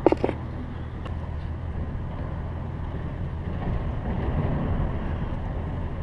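A steady low mechanical drone, like a distant engine running, with a few sharp clicks in the first second.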